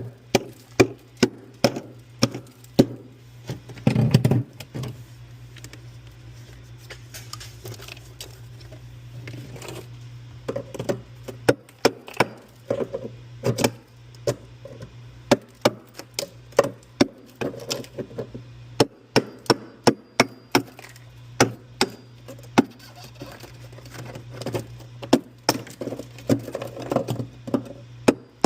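Irregular sharp clicks and knocks of hard parts being handled and worked loose while a refrigerator's freezer compartment is taken apart, a few a second at times, over a steady low hum.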